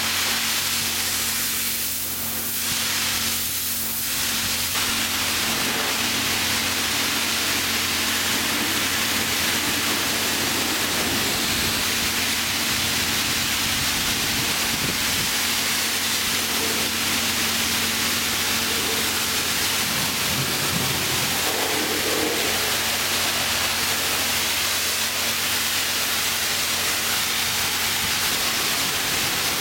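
Automatic car wash running over a car: a loud, steady hiss with a low steady hum underneath.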